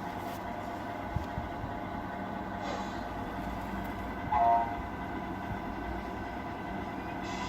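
Electronic sound unit of a Tamiya RC truck playing a steady engine-running sound. About four and a half seconds in there is one short horn toot.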